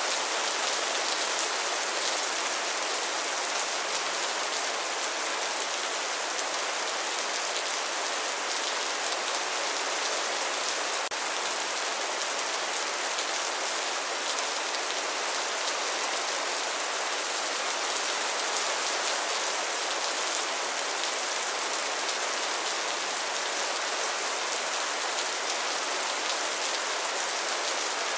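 Steady rain falling and pattering on surfaces, an even hiss with no lull or build.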